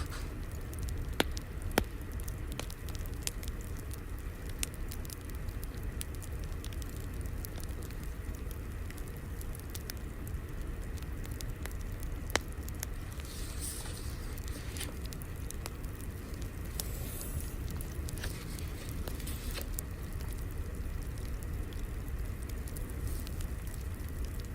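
Crackling wood fire: a steady low rumble with scattered sharp pops, the loudest about a second in, just before two seconds in, and near the middle. Two brief rustles come shortly after the middle.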